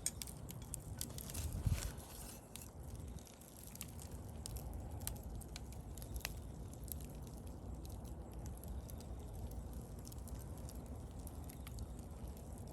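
Wood bonfire crackling, with scattered sharp pops over a low steady rumble, briefly louder about one and a half seconds in.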